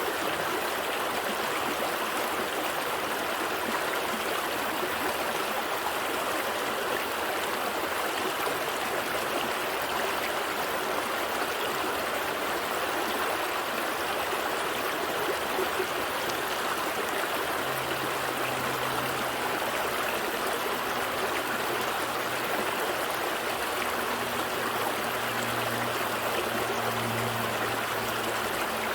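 Gentle stream flowing steadily over rocks, a continuous even rush of water. About two-thirds of the way in a faint low hum joins underneath.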